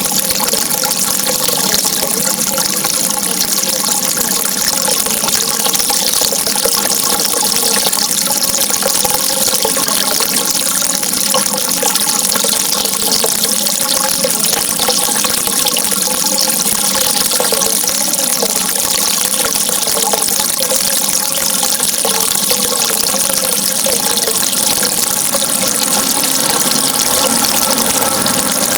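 Steady rushing water, an even unbroken flow with no pauses or changes.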